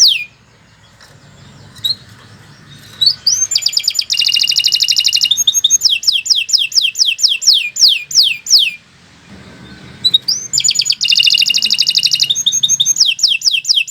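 Domestic canary singing: long phrases of high notes that each sweep downward, repeated about five or six a second, with a fast rolled trill opening each bout. The song stops twice, for about three seconds near the start and about a second and a half midway.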